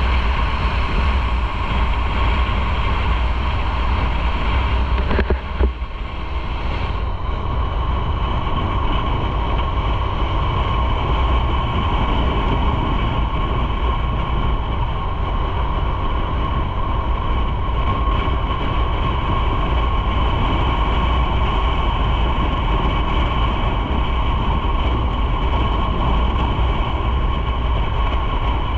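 Motorcycle on the move: steady engine drone with heavy wind and road rumble, and a brief knock about five seconds in.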